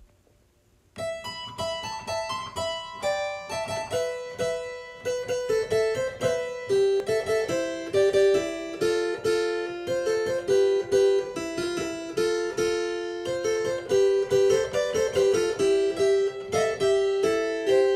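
Harpsichord played in a quick, continuous stream of plucked notes in the middle register, starting about a second in.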